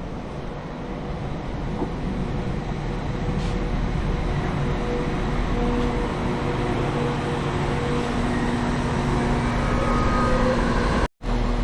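Class 197 diesel multiple unit's engines running and growing steadily louder as the train pulls away, with a steady engine note rising out of the rumble about halfway through. The sound cuts off suddenly near the end.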